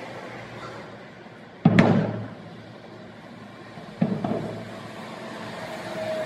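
Fireworks shells bursting overhead: one loud boom about two seconds in, then a weaker double bang about four seconds in, followed by a steady thin tone.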